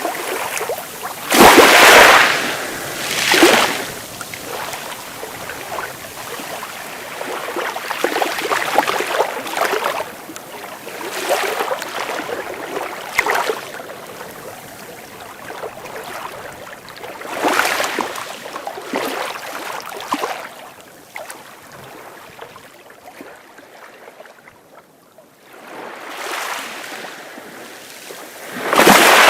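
Sea waves breaking and washing in, a rush of hiss that swells and falls every few seconds. The strongest breaks come about two seconds in and just before the end, with a lull late on.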